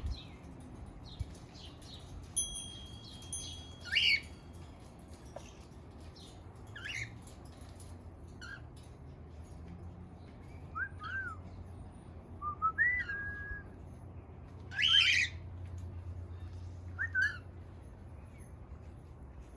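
Cockatiel chirping and giving short whistled calls now and then, some rising and falling in pitch. The loudest call comes about fifteen seconds in.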